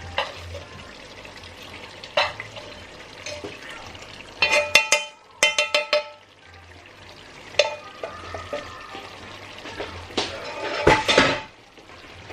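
Oil and fried fish going into a pan of spiced potato curry: a steady sizzle, with a metal spoon clinking and scraping against the pan. There is a quick run of ringing clinks a little before halfway, and another clatter near the end.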